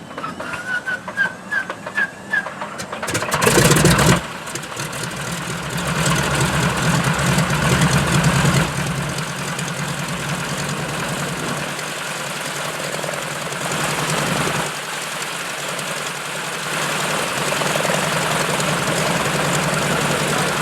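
Light airplane's piston engine being started: a few uneven ticks, then it catches with a loud burst about three seconds in. It revs up briefly and settles into a steady idle.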